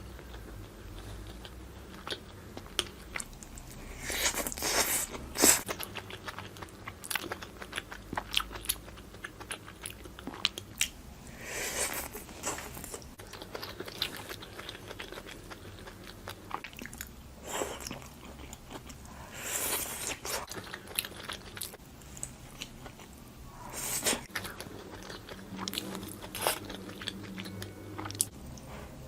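Close-miked eating of barbecued skewers: bites and chewing with irregular crunchy clicks, in several louder bursts separated by quieter chewing.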